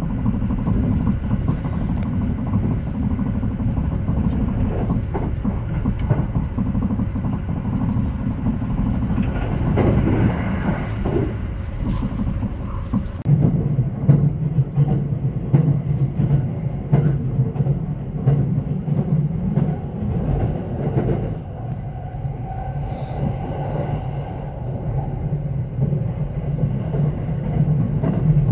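Haruka airport express train running, heard from inside the carriage: a steady low rumble with scattered clicks from the wheels on the rails. The rumble grows stronger about halfway through.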